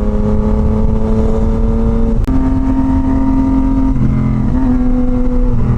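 Yamaha MT-09's inline three-cylinder engine and exhaust under steady riding. The engine note holds level, breaks briefly about two seconds in and comes back higher, then steps lower twice toward the end as the revs change.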